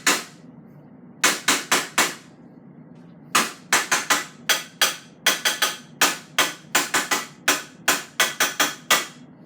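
A cooking spoon tapped repeatedly against the rim of a pot, sharp ringing taps in quick runs: four or so about a second in, then a long run of about twenty from about three seconds in.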